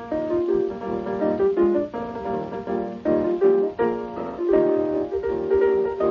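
Piano music: a melody over chords, notes changing every half second or so.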